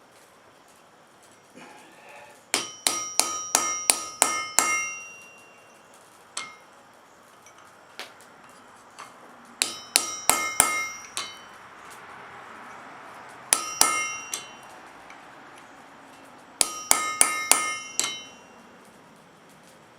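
Hammer striking a chisel on wrought iron in four quick runs of ringing metallic blows, each run of about two to seven strikes, with pauses between them.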